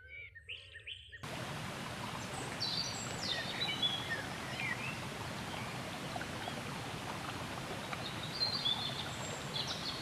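Small birds chirping and calling. About a second in, a steady rushing hiss comes in abruptly, and short high chirps sound over it twice.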